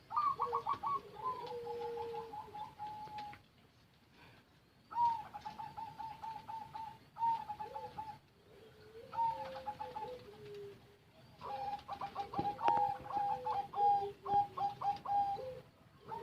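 Zebra doves (perkutut) cooing: bouts of rapid, stuttering coos on two pitches at once, four bouts with short pauses between them.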